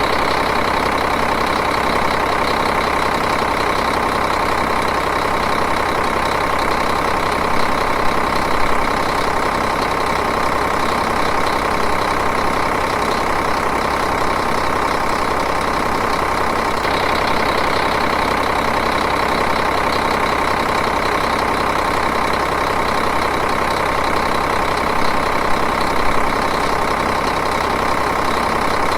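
Diesel engine idling steadily, with a little extra chatter about eight seconds in and again near the end.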